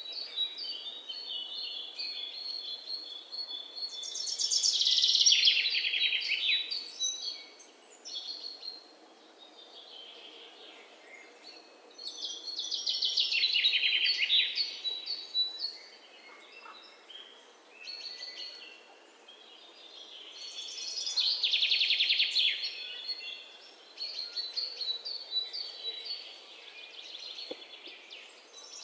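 Songbirds singing: one bird repeats a loud, rapid trilling song phrase of about three seconds, three times at roughly eight-second intervals, with softer, quick repeated chirps between.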